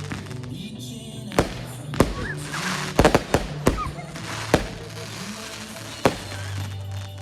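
Fireworks going off in sharp bangs at irregular intervals, with a quick cluster of bangs about three seconds in, over music played with the display.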